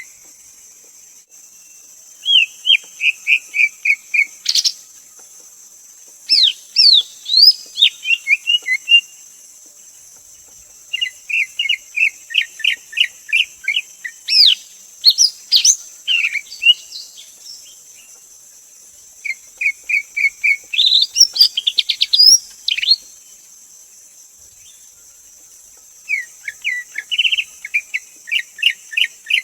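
Greater green leafbird singing: phrases of rapid repeated chirping notes mixed with sweeping whistles, separated by pauses of a second or two, about six phrases in all.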